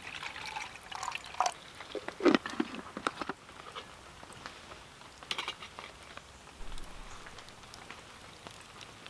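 Scattered light knocks, clinks and drips as a metal camping pot of water is handled after filling, getting set to boil over the campfire; the loudest knock comes about two seconds in.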